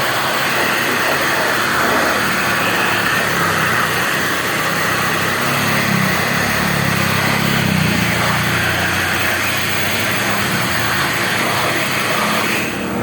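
Air blower running steadily, blowing dust out of an amplifier's chassis; it cuts off near the end.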